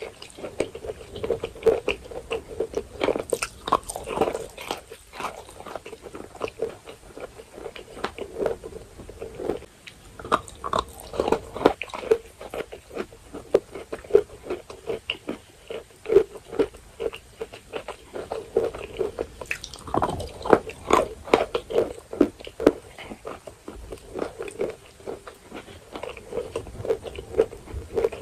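Dry edible chalk being bitten and chewed: a steady run of small crisp crunches, with bursts of louder bites about three seconds in, around eleven seconds and around twenty seconds.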